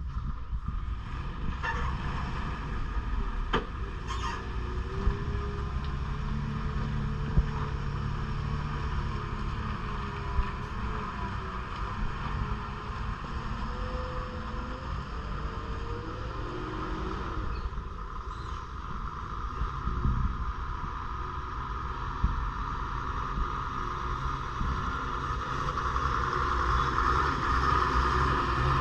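Heavily loaded 12-wheel lorry's diesel engine labouring uphill, a steady low-pitched running that grows louder near the end, with a few short knocks.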